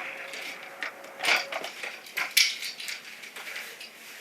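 Irregular clatter of small hard objects: a run of sharp clicks and knocks, the loudest about a second and a half and two and a half seconds in.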